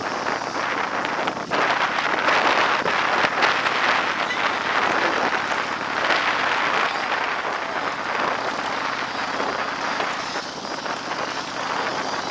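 Steady rushing wind and road noise at the microphone of a moving motorcycle, with no engine note standing out, swelling slightly a couple of seconds in.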